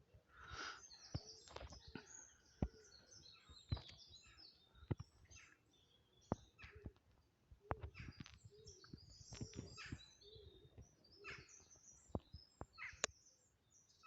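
Wild birds chirping and calling, faint, with about a dozen sharp irregular taps or clicks scattered throughout.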